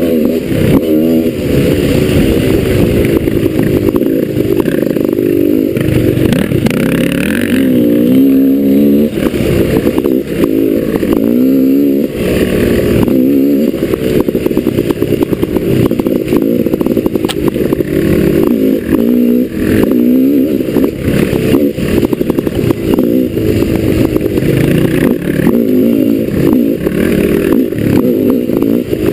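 Dirt bike engine revving up and down as it rides trail, the pitch rising and falling every second or two, with frequent knocks and rattles from the rough ground.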